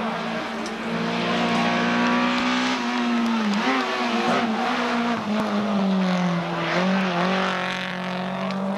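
Rally car engine running hard at high revs, a steady pitched note that wavers and drops briefly twice, around four seconds in and again near the end, as the driver lifts and shifts through the bends.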